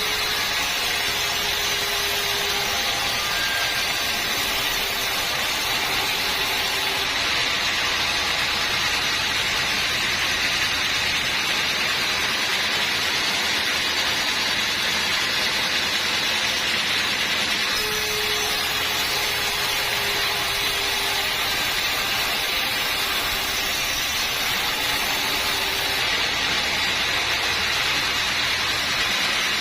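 Band sawmill running, a steady loud mechanical noise throughout, with a faint short tone sounding twice.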